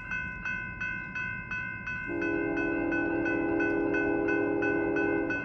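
Grade-crossing warning bell ringing rapidly, then about two seconds in the approaching Norfolk Southern freight locomotive's air horn sounds one long steady blast over it, the loudest sound here.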